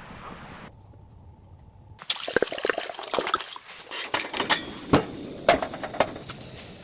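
Liquid sloshing and trickling, with a dense run of small knocks and clicks starting about two seconds in, loudest near the end.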